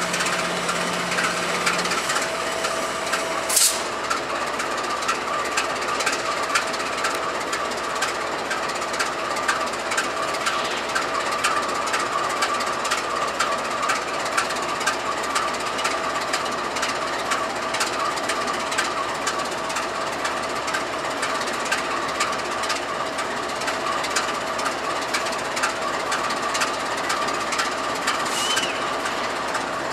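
BNSF freight train with GE diesel locomotives rolling slowly toward the microphone: a steady, dense clatter with a constant whine over it, and a brief high hiss about three and a half seconds in.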